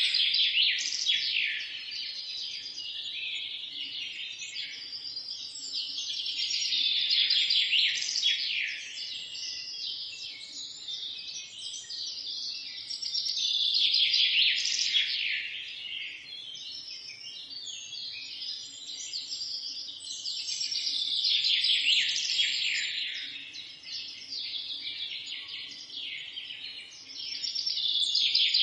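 Songbirds chirping and singing in a dense, overlapping chorus of high twitters and trills that swells loudest about every seven seconds.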